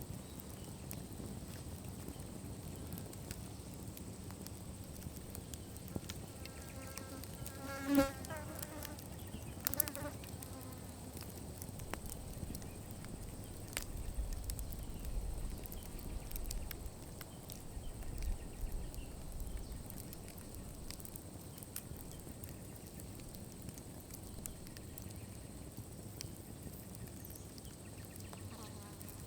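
Campfire crackling with scattered small pops, and a flying insect buzzing close past the microphone between about six and ten seconds in.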